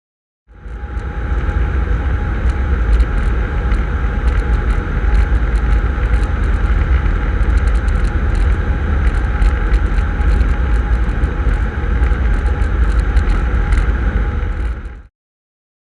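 Steady cockpit rumble of a Cessna 150 on final approach: engine and airflow noise, deepest at the bottom, with a thin steady tone over it. It cuts in abruptly just after the start and cuts off abruptly near the end.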